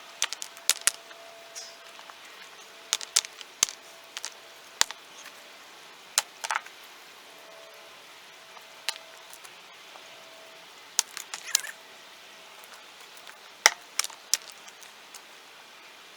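Rocks being stacked, knocking and clacking against one another in irregular sharp clicks, some in quick clusters of two or three.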